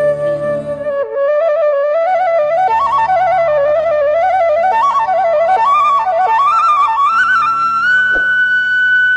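Background music: a flute holds a long note, then plays a fast, ornamented melody over a low drone and settles on a long high note near the end.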